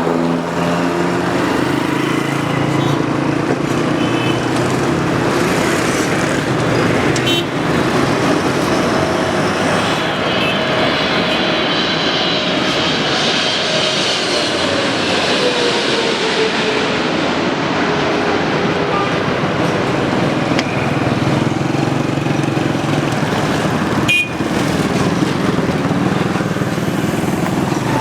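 Boeing 777-300ER's twin GE90 turbofan engines as the airliner passes low overhead on approach: a steady jet roar with a high whine that builds toward the middle, then a tone that slides down in pitch as the aircraft goes past.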